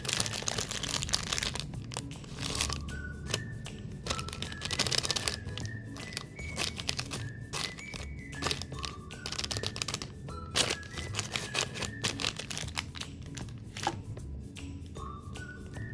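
Snack-cake wrapper crinkling and tearing as it is unwrapped, with sharp crackles throughout, over background music that plays a simple melody of single high notes from about two seconds in.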